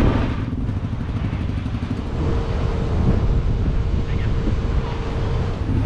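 Motorcycle engine idling with a steady low, pulsing rumble, with some wind on the microphone.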